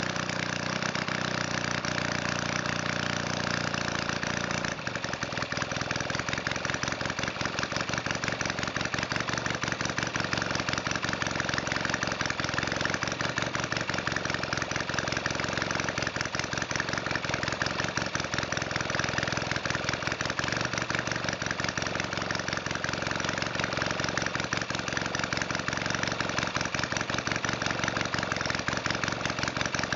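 Valach 170cc model aircraft engine running continuously, set very rich on its needles and its 25:1 fuel-oil mix. About five seconds in, its note changes from a smooth, steady pitch to a rougher, faster beat, which then holds steady.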